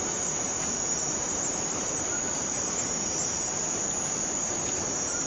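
Cicadas singing in chorus: a steady, unbroken high-pitched buzz.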